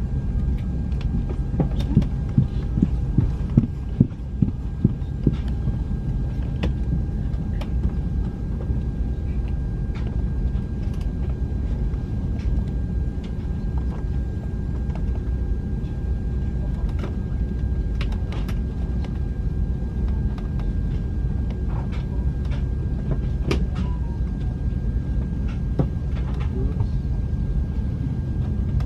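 Steady low rumble and hum inside the cabin of an Airbus A330-300, with a few steady tones over it. A quick run of about eight knocks comes a couple of seconds in, and faint clicks are scattered throughout.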